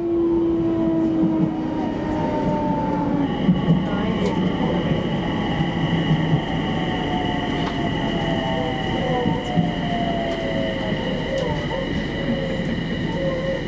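Electric commuter train slowing into a station: the traction-motor whine glides steadily downward as it brakes, over the wheel and running noise. A steady high squeal joins about three seconds in.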